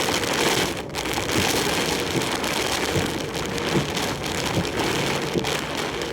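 Heavy typhoon rain and wind beating on a large truck's cab as it drives, a dense steady hiss, with a low knock recurring a little more than once a second.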